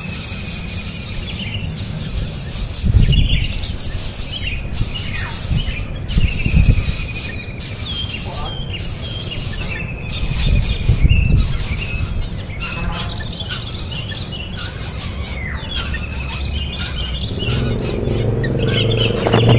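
Birds chirping in short calls that fall in pitch, over a steady high insect buzz that breaks off about every second and a half, with a few low rumbles. Near the end a motor vehicle's hum rises.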